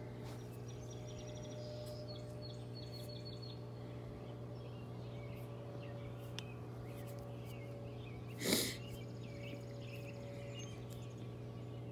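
Birds chirping in short high runs over a steady low hum, with one brief loud rush of noise about two-thirds of the way through.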